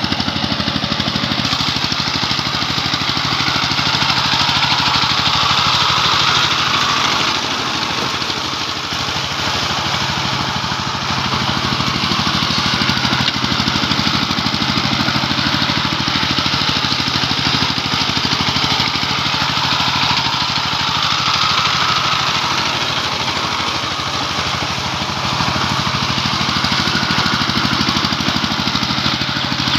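Tractor engine running steadily with rapid, even firing pulses, briefly easing off about eight seconds in.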